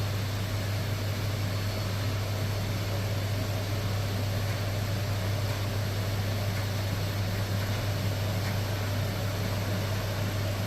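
Electrolux Professional WN6-20 commercial washing machine running early in its wash cycle, before the detergent is injected: a steady low hum with an even background whir.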